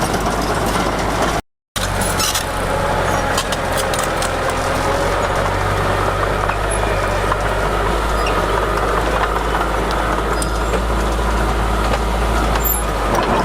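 Diesel engine of a Komatsu D31P crawler bulldozer running steadily under a faint whine that wavers in pitch. The sound cuts out completely for a moment about a second and a half in.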